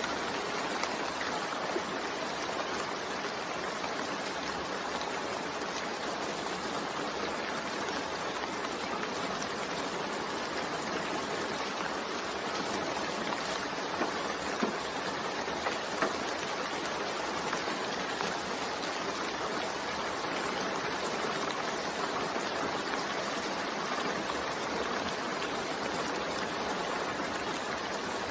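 Steady rain ambience: an even hiss of falling rain, with a few sharper drop ticks about halfway through.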